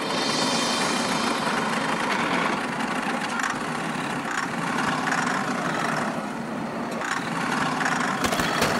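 A small motor running steadily, a dense mechanical whirr.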